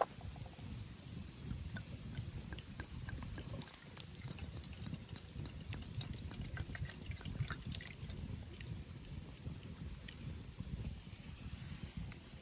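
Wood fire burning in a camp fire pit: irregular crackles and pops over a low, steady rumble of flame and wind.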